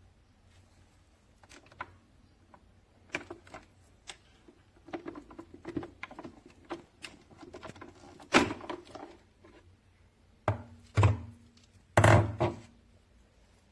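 Handling noises: a run of irregular light clicks and knocks of hard objects being moved about, with a few louder thuds in the second half.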